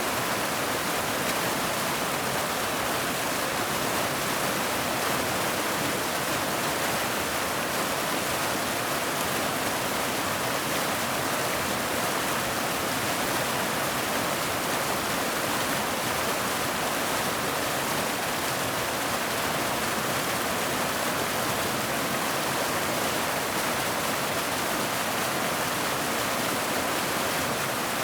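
Waterfall: a steady, unbroken rush of falling water, its hiss strongest in the middle and upper range with little low rumble.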